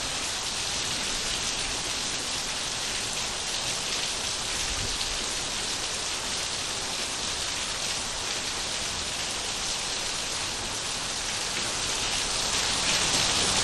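Steady rain falling on surfaces, a dense even hiss of many drops with no distinct tones, swelling slightly louder near the end.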